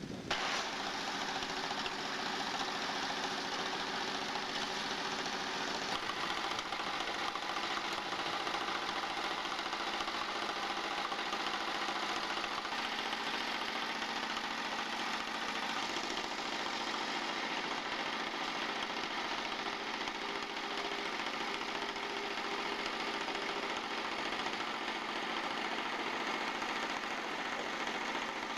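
Diesel locomotive engine running steadily, a constant mechanical drone with a knocking rattle and no change in speed.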